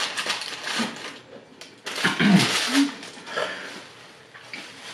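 Close-miked eating: chewing and wet mouth noises from burger bites, with a few short hummed "mm" sounds of enjoyment, the clearest about two seconds in.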